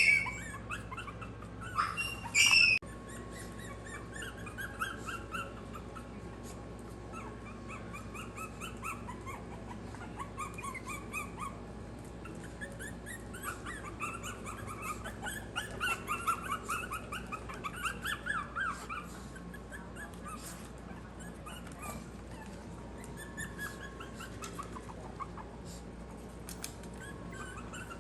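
Maltese puppies whimpering and squeaking: many short, high-pitched cries that overlap, busiest in the middle. A few louder sharp noises come about two seconds in.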